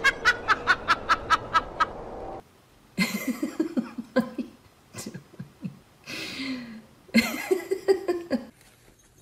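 A person laughing in a quick run of even, high-pitched bursts, about five a second. After a short break, more laughter in a lower voice comes in two spells.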